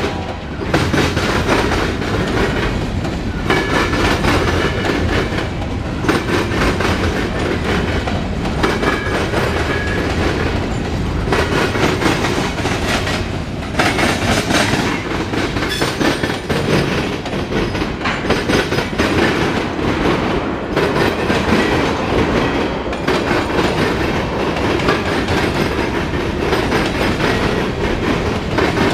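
CSX mixed freight train's cars rolling past: a steady rumble of steel wheels on rail, with repeated clicks as the wheelsets cross rail joints.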